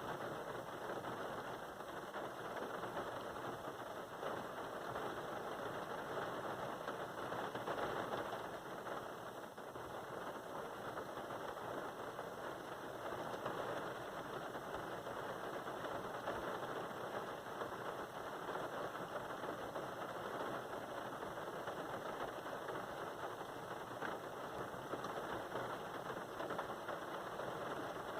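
Steady rain pattering: a dense, even patter of fine drops that does not let up.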